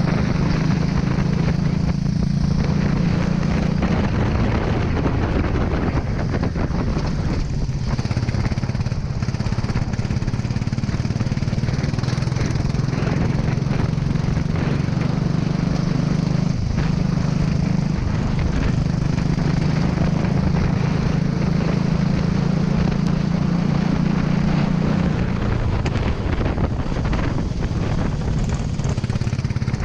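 Kart engine running hard through a lap, its pitch falling and rising again a few times as the throttle is lifted and reapplied.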